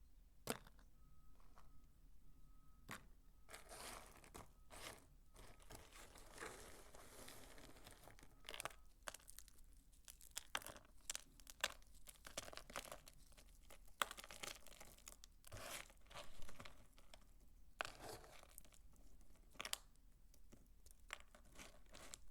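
Dry soap crunching and crackling as it is broken up, close to the microphone. There is a dense run of small crackles a few seconds in, then scattered sharp crunches.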